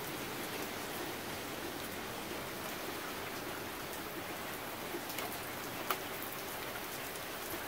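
Rain falling steadily, an even hiss, with a few faint clicks of drops about five to six seconds in.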